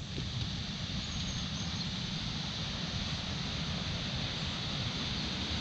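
Steady rushing noise of a whitewater rapid, with wind buffeting the microphone in a low, fluttering rumble.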